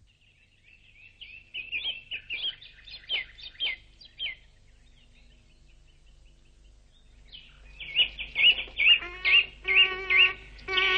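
Birds calling in a series of short, quick chirps. The calls pause for a moment around the middle, then come back louder and more rapid over the last few seconds.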